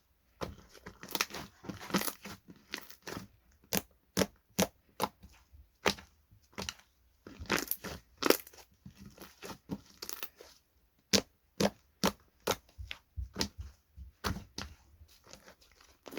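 Slime being handled by hand, giving off irregular sharp crackles and pops, with denser runs of crackling about a second in and again around seven to eight seconds in.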